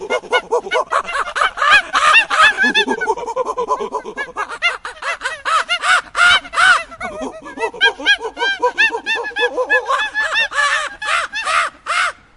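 A flock of birds calling at once: many loud, harsh, overlapping calls, several a second, that cut off shortly before the end.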